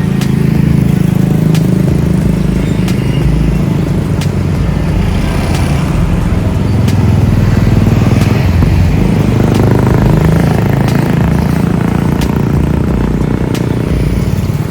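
Steady low rumble of a motor vehicle's engine running, swelling a little about two-thirds of the way through, with a faint click recurring about every second and a half.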